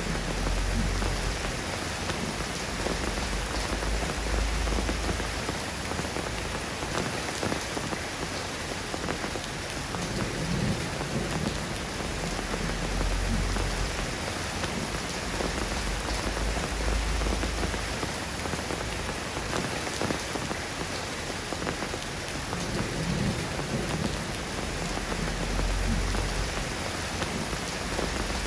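Steady rain falling, an even patter. Low rumbles swell and fade every few seconds beneath it.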